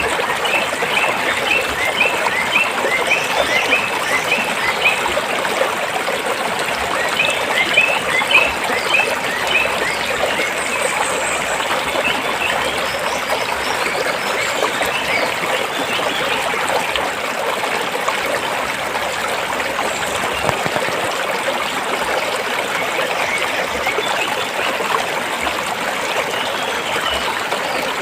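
Stream water flowing and trickling steadily over rocks. Twice in the first ten seconds, a quick run of short, evenly repeated high chirps sounds above the water.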